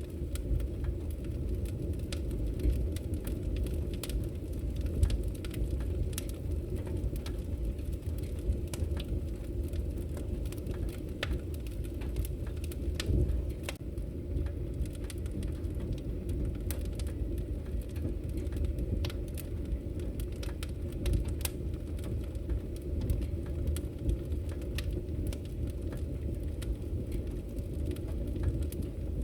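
Wood fire crackling in a fireplace: scattered sharp pops and crackles over a steady low rumble of the flames.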